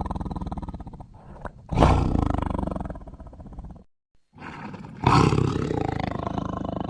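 Smilodon (sabre-toothed cat) sound-effect roars. A roar dies away, then two loud roars follow, one about two seconds in and one about five seconds in, each starting suddenly and fading off, with a brief silence between them.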